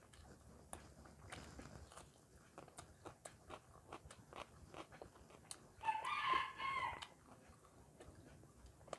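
Close-up eating sounds: crunchy bites and chewing of raw onion and rice, with many small mouth clicks. About six seconds in, a loud pitched call that lasts about a second stands out above the chewing.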